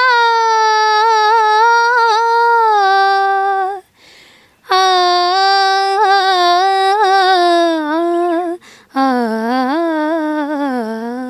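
A young woman singing an unaccompanied, wordless alaap in Hindustani classical style. It runs in three long held phrases with quick ornamental turns, each starting lower than the one before, with short breaths between them about four and nine seconds in.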